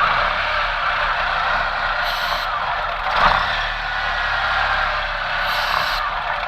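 Steady hissing rush from the Chevrolet Tornado's 1.8 L four-cylinder engine running with its throttle body open while aerosol throttle-body cleaner is sprayed in, over a faint low engine drone.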